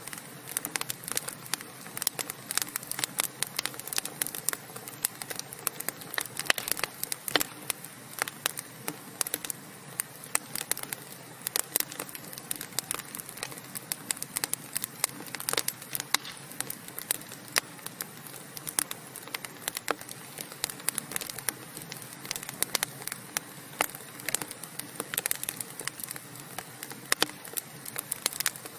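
Wood fire burning steadily, with frequent irregular sharp crackles and pops from the burning logs over a soft hiss.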